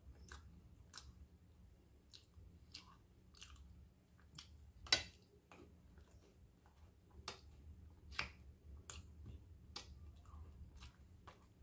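A person biting and chewing a crunchy finger biscuit spread with chocolate cream, close to the microphone: scattered crisp crunches and clicks, the loudest about five seconds in.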